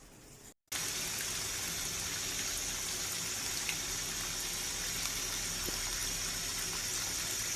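Water gushing steadily into a Panasonic washing machine through its water inlet valve as it fills, starting abruptly just under a second in.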